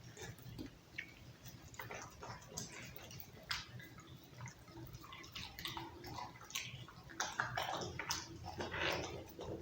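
Pit bull chewing raw meat: irregular wet smacking and crunching, with louder crunches in the last few seconds.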